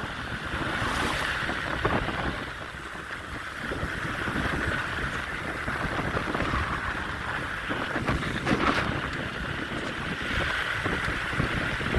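Wind buffeting the microphone of a rider on a moving bicycle: a steady rushing rumble that swells and eases.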